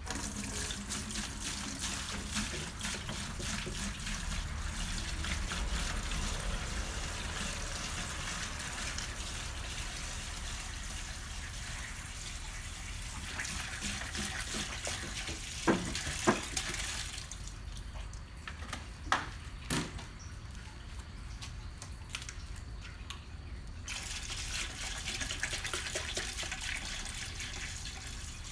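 Water pouring into a bucket as it is filled, stopping for several seconds past the middle and then running again. A few sharp knocks in the pause, the loudest sounds.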